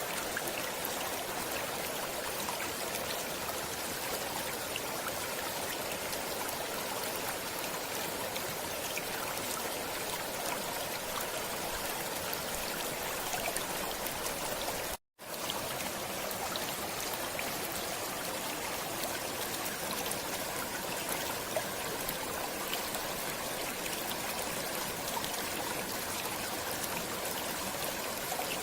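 Steady running water of a stream, an even rushing sound with fine trickling. It cuts out to silence for a split second about halfway through.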